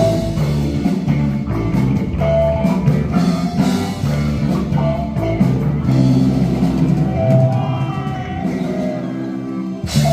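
Live rock band playing, with electric guitar over a drum kit; about seven seconds in the low bass drops away as the song winds down.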